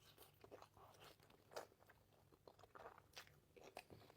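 Faint, close-miked eating sounds: soft chewing with irregular small wet clicks and crunches from the mouth.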